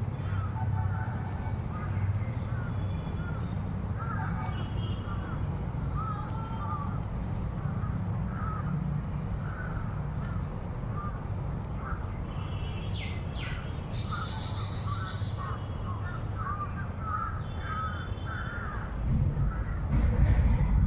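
A flock of crows cawing over and over, many short calls overlapping, over a steady high-pitched hiss and a low rumble, with a louder low bump near the end.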